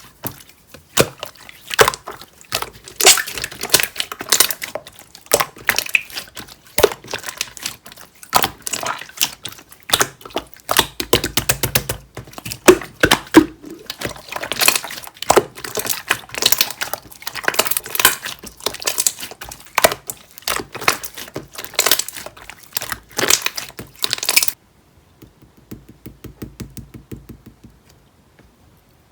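Clear slime being squished and pressed by hand, a dense, irregular run of loud wet clicks and pops. It drops off suddenly about 24 seconds in, leaving only faint clicks.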